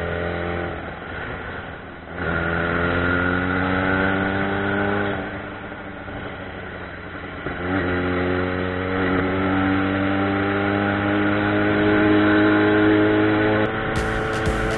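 Yamaha XJ6 motorcycle's 600 cc inline-four engine pulling hard, its pitch rising as it accelerates. It eases off about five seconds in, then climbs again from about eight seconds in. Background music comes in near the end.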